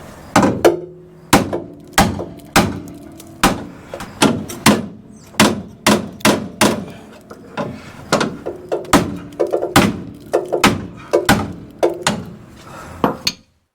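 Ball peen hammer blows on the bent steel front frame rail of a 1966 Ford Ranchero, roughly two strikes a second with a short metallic ring after each. The rail is being knocked back into shape after curb damage.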